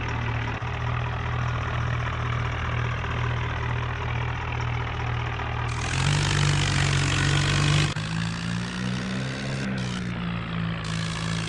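Tractor engine running steadily, its pitch stepping up about six seconds in and shifting again about two seconds later.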